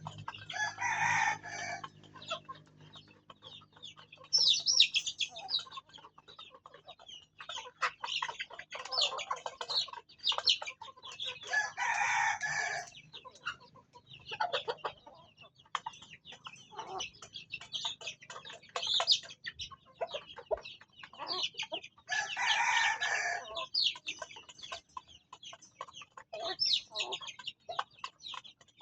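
Farm chickens clucking and calling in a steady run of short calls, with about four louder drawn-out calls scattered through.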